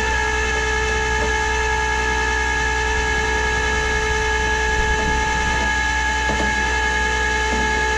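A machine running steadily at a fixed speed: a constant drone with a pitched whine made of several unchanging tones, and a few faint knocks near the end.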